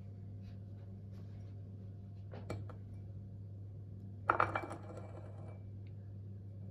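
Kitchenware clinking during baking prep: a brief clink about two and a half seconds in, then a louder clatter of ringing clinks and rattles of utensils against dishes or glass a little past halfway, over a steady low hum.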